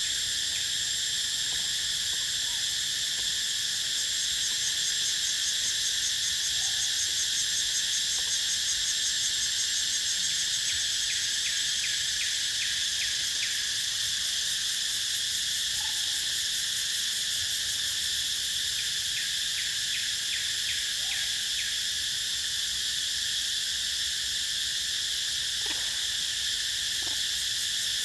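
Steady insect chorus, a dense high-pitched drone in several layers, with stretches of rapid pulsed chirping laid over it. A few faint short calls sound near the end.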